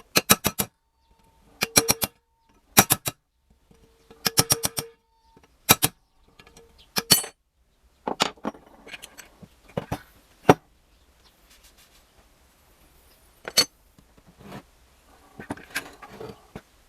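Metal tools and steel engine parts clicking and clinking while a gear housing is dismantled: quick runs of sharp metal clicks, several a second, some with a short ring, in the first half, then scattered clinks and knocks.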